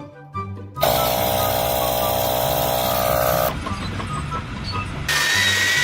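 Loud machinery noise, tagged as vehicle or power tool, that cuts off suddenly about three and a half seconds in. A different machine noise with a steady high whine starts about five seconds in.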